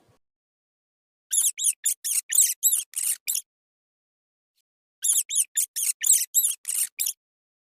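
Mouse squeaking: two runs of rapid high-pitched squeaks, each lasting about two seconds, the second starting about five seconds in.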